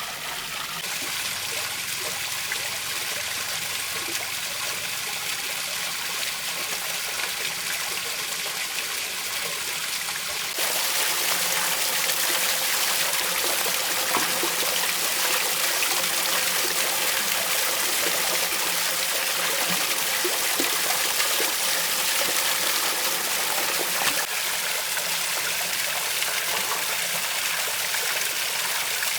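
Water running and splashing steadily down a man-made stone waterfall into a pool, a continuous trickling rush that jumps louder suddenly about ten seconds in.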